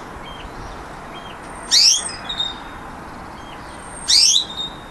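Budgerigar calling: two loud, quick chirps that sweep downward in pitch, about two seconds apart, with a few faint short chirps between them.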